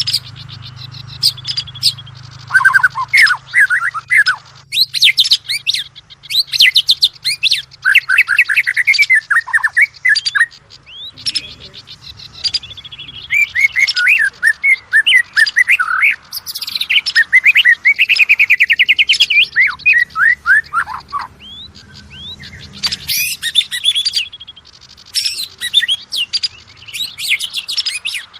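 Oriental magpie-robin singing continuously in fast, varied phrases of sweeping whistles, rapid trills and harsh chatter, with a few short breaks.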